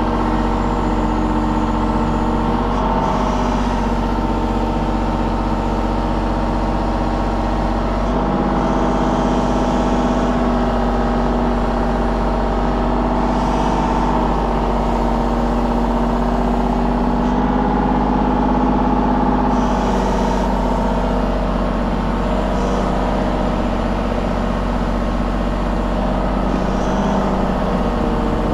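An engine running steadily, its pitch shifting slightly a few times.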